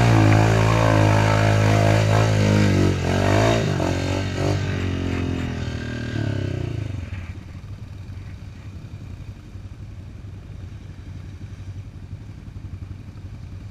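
Off-road quad bike engine running loud, its pitch wavering, then fading away over several seconds as it moves off, leaving low steady background noise.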